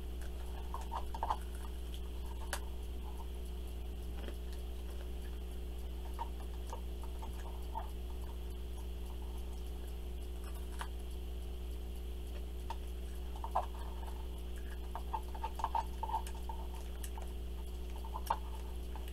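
A person chewing a sticky marshmallow-topped cracker snack: scattered soft mouth clicks and small chewing noises, busiest about a second in and again between about 13 and 16 seconds, over a steady low hum.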